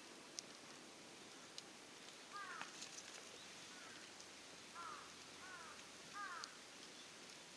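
A bird outdoors calling five times: short, quick notes that each slide downward in pitch. There are a few faint sharp ticks and a low steady hiss behind it.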